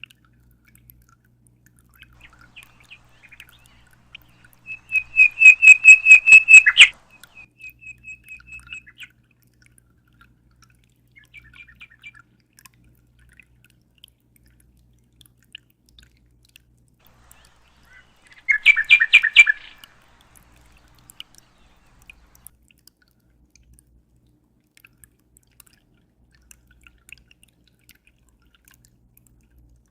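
Bird song: a loud rapid run of repeated high notes about five seconds in, trailing off into a softer trill. A second short, loud burst of calls comes around nineteen seconds, with a faint low hum underneath.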